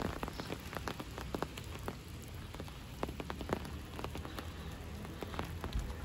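Rain falling, with many separate drops ticking close by at an uneven pace over a steady low rumble.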